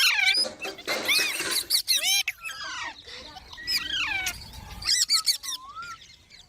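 Baby green parrot chirping and squeaking in quick clusters of short calls that glide up and down in pitch, with a few sharp clicks among them.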